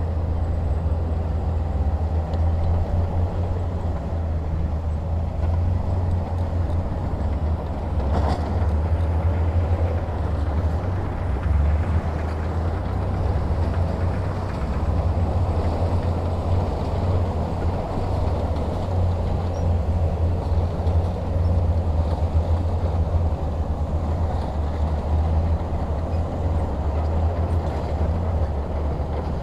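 Heavy diesel engine running steadily with a low drone. There is one sharp knock about 8 seconds in.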